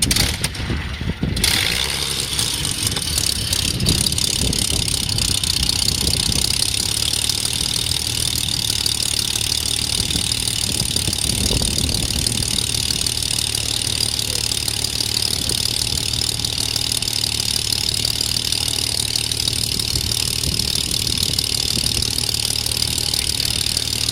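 Supermarine Spitfire's V12 piston aero engine in a cold start: it runs roughly and unevenly for about the first second and a half, then settles into steady running with a strong hiss over it.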